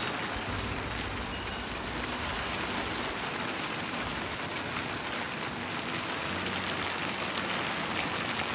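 Heavy monsoon rain falling steadily: an even hiss thick with small drop impacts.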